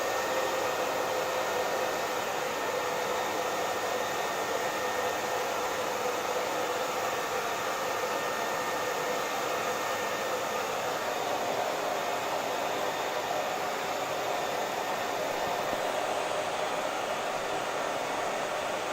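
Hair dryer running continuously: a steady airflow hiss with a faint whine from the motor.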